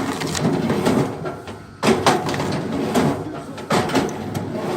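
Sharp knocks or impacts, one to two seconds apart (two close together near the middle, one more near the end), each followed by a short rough, scraping noise.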